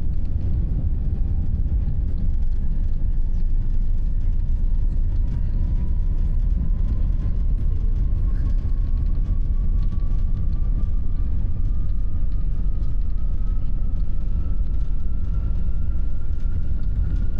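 Airbus A380 jet cabin noise during the takeoff run: a loud, steady low rumble with a faint whine that climbs slowly and evenly in pitch as the aircraft speeds up.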